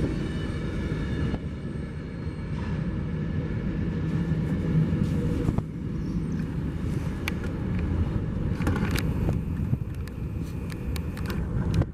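Train rolling past: a steady low rumble of rail cars, with a faint high wheel squeal in the first second or so and scattered light clicks.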